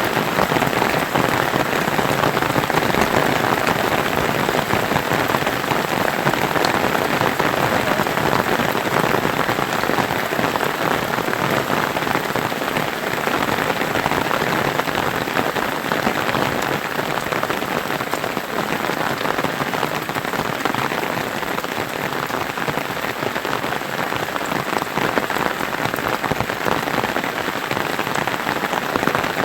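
Steady rain falling and pattering on surfaces, a dense even hiss of many fine drops.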